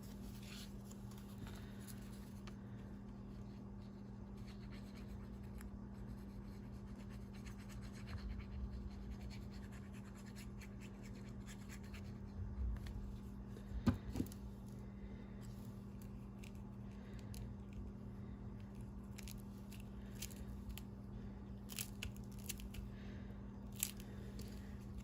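Faint handling of paper and card: light rustles, scratches and small taps as cut-outs are pressed and placed, with one sharper click about halfway through. A steady low hum runs underneath.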